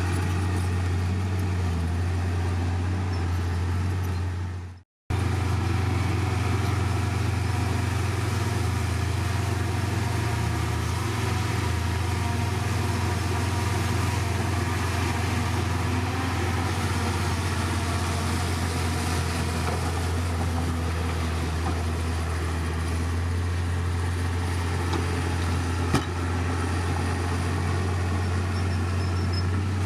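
Heavy diesel earthmoving machinery engine running steadily with a deep, even drone. The sound cuts out for a moment about five seconds in, then resumes unchanged.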